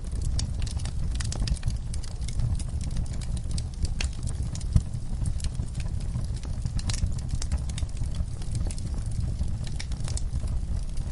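Wood fire crackling, with irregular sharp pops and snaps over a steady low rumble; one louder pop about halfway through.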